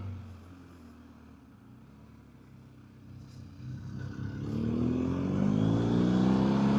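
BMW R1250GSA boxer-twin engine: off the throttle and quiet at first, then accelerating hard from about four seconds in, the engine note rising and getting louder.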